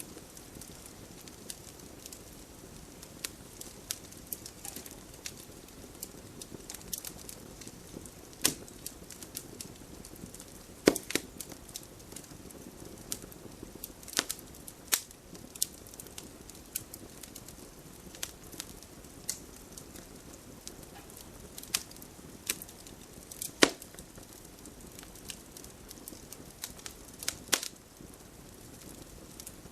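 Wood fire crackling: a low steady hiss broken by irregular sharp pops and snaps, a few of them much louder than the rest.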